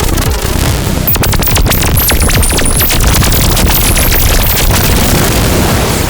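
Analog modular synthesizer effects of the kind used in dark psytrance: a dense, rapid stream of glitchy clicks over noise, with short high chirps.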